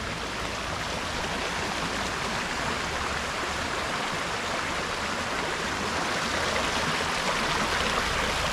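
Rain-swollen creek gushing: a steady rush of fast-flowing water, swollen by a hard downpour.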